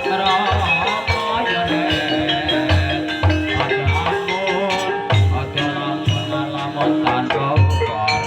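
Javanese gamelan music in campursari tuning accompanying an ebeg dance: struck metallophone notes carry a melody over a regular pattern of deep hand-drum strokes.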